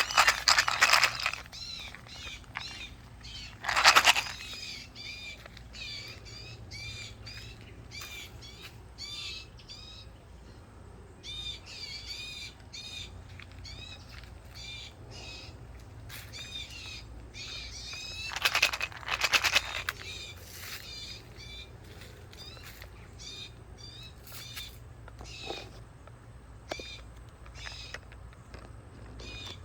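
Wild birds calling at a peanut feed: many quick, repeated chirps and calls, with a few louder, harsher bursts near the start, about four seconds in, and again around two-thirds of the way through.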